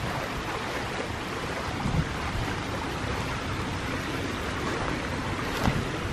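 Steady outdoor rushing noise, with a couple of soft low thuds about two seconds in and again near the end.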